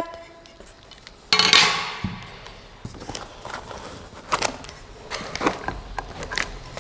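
Packaging and parts being handled as a machine is unboxed: a loud rustle or scrape about a second and a half in that fades quickly, then scattered light clicks and knocks.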